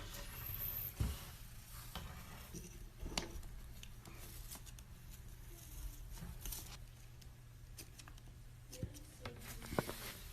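Faint scratching and rustling with scattered short clicks, and a couple of brief chirps near the end.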